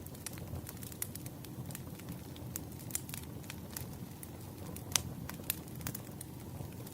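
Campfire burning: a steady low rumble of flames with irregular wood crackles and pops, a sharper pop about five seconds in.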